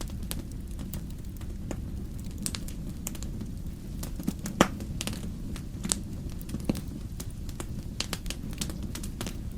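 Wood fire burning in a fireplace: a steady low rumble of flames with irregular sharp crackles and pops, the loudest pop about four and a half seconds in.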